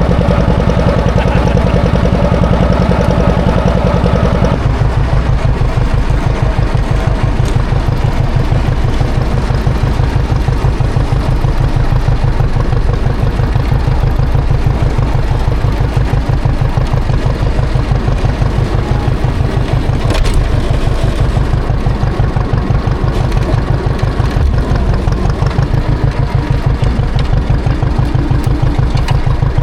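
A John Deere tractor engine running steadily. Its speed drops about four and a half seconds in, then it runs on at the lower speed.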